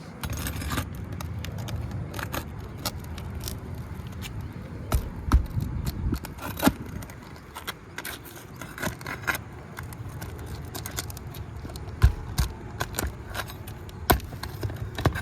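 Asphalt shingles and roofing nails being pried out: scattered scraping, clicking and crackling, with a few sharper knocks, over a steady low rumble.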